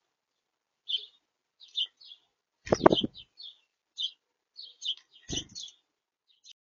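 Small birds chirping at a feeder: short, high chirps repeating about every half second. Two loud thumps come about three seconds and five seconds in.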